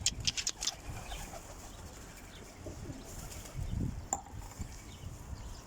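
Domestic pigeons cooing softly, with a quick run of rattling strokes in the first second and a single sharp click about four seconds in.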